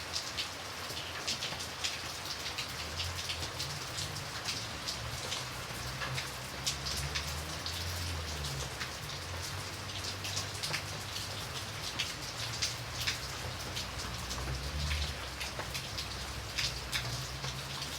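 Steady rain falling, full of distinct drops ticking sharply on a surface, over a low, steady rumble.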